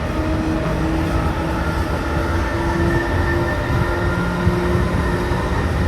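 Seibu New 2000 series electric train running: a steady low rumble of wheels on rail with thin whining tones from the traction motors and their drive.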